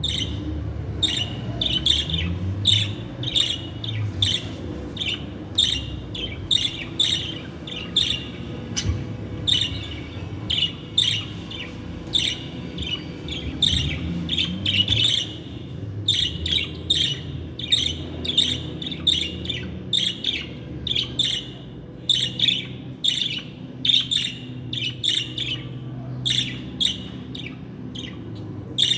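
Budgerigar chirping in a steady run of short, sharp calls, about one or two a second, over a low background rumble.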